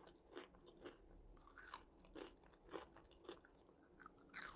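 Faint close-miked chewing of homemade French fries: soft crunching mouth sounds about twice a second, with a louder crunch near the end as another fry is bitten.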